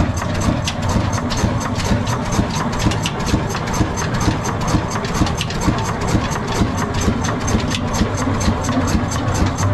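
Large 60 hp Ruston Hornsby stationary diesel engine running steadily, with an even beat of sharp clicks about four a second over a low hum.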